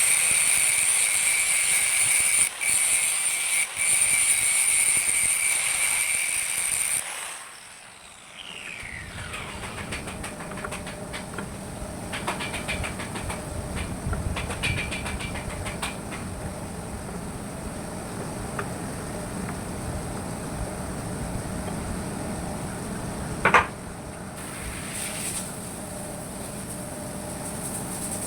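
A power grinder runs with a steady high-pitched whine for about seven seconds, then is switched off, its pitch falling as it spins down. After that a quieter steady running noise carries on, with scattered light clicks and one brief loud hit a little before the end.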